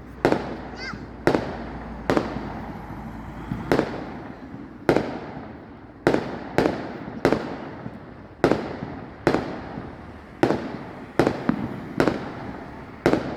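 Firework display shells bursting overhead in a steady barrage: sharp loud bangs about once a second, each trailing off in a rumbling echo.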